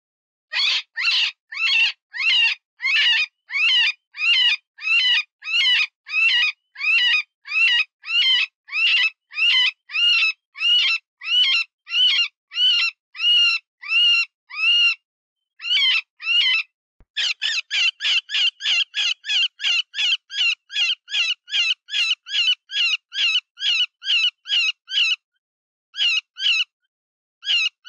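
Cottontail rabbit distress call, a predator-hunting lure imitating a wounded rabbit: a long string of high, wavering squeals, each rising and falling in pitch. The squeals come about two a second, then after a short break a faster run of shorter squeals at about three a second, growing sparser near the end.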